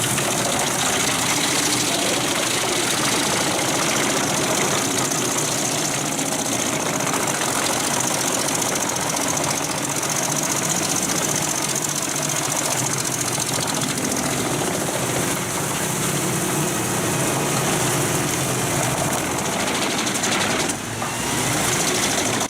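Pezzolato PTH 1400/1000 Allroad self-propelled drum chipper working under load. Its 700-horsepower Volvo engine's roar blends with the steel drum cutting logs and the chips blowing out, a loud, steady din with a short dip near the end.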